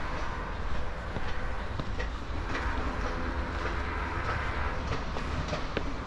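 Steady low rumble of distant vehicles, with a faint whine through the middle and a few scattered clicks.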